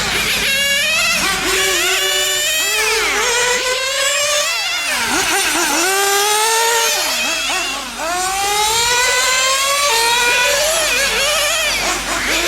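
Small nitro engines of RC cars on a track, revving up and dropping back over and over as the cars accelerate and brake through the laps, more than one engine at times.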